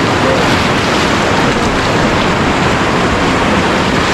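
White-water river rapids rushing, loud and steady.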